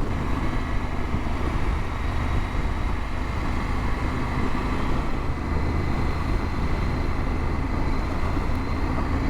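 Motorcycle running at a steady cruise under light throttle, its low engine hum under steady wind and road noise.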